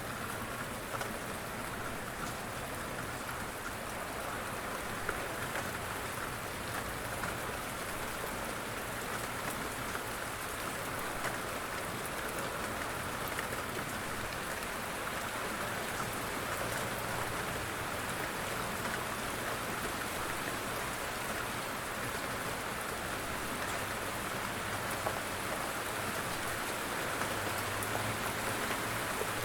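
Light rain falling steadily: an even hiss with scattered individual drop ticks. A low rumble swells in near the end.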